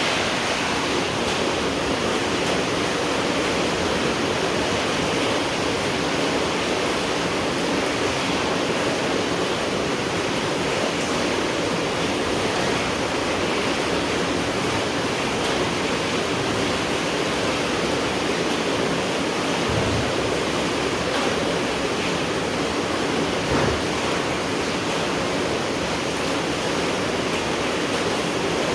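Steady night rain falling, an even hiss without break. Two brief low thumps come in the later part.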